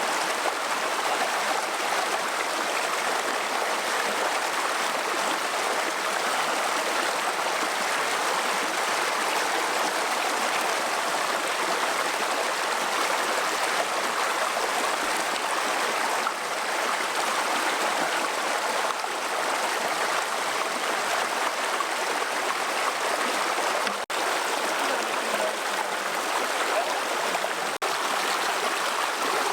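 Steady rushing of flowing water, like a mountain stream, running evenly throughout, with two very brief dropouts near the end.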